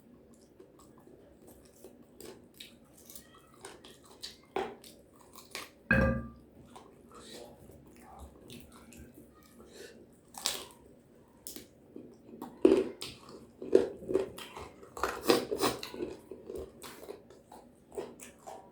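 Close-miked eating sounds from a meal of fried food: chewing, with crisp crunchy bites that come thicker and louder in the second half. There is one louder dull thump about six seconds in.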